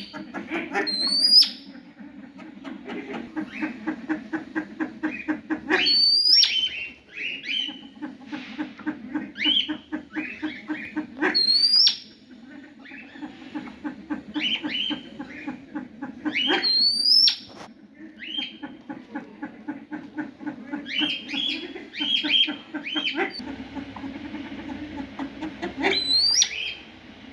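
Birds calling: a fast run of short repeated notes, about five a second, broken every few seconds by a sharp rising whistle.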